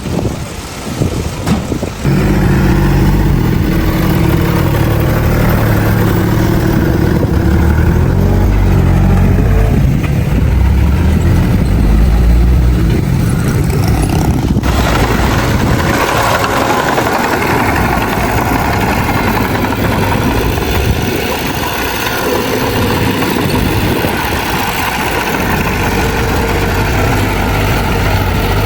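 Heavy diesel engine of an earthmoving machine running. The sound changes abruptly about two seconds in and again around halfway.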